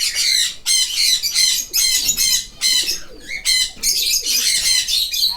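A flock of small caged birds chirping and chattering continuously, many high-pitched calls overlapping with only brief dips.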